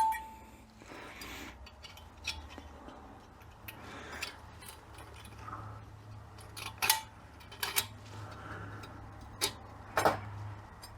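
Metal transmission parts clinking and tapping as they are handled on the bench: a short metallic ping at the start, then scattered light clicks, the loudest about two-thirds of the way in and near the end, over a steady low hum.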